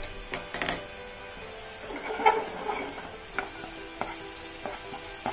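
Green chillies, curry leaves, cumin and mustard seeds in butter starting to sizzle in a non-stick frying pan as it heats over the gas, stirred with a plastic spatula that scrapes and taps the pan now and then.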